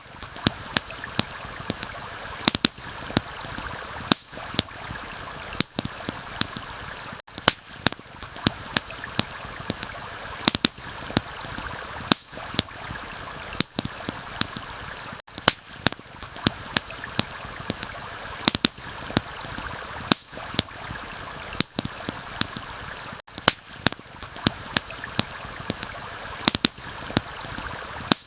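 Campfire crackling with frequent sharp, irregular pops over the steady rush of a flowing stream.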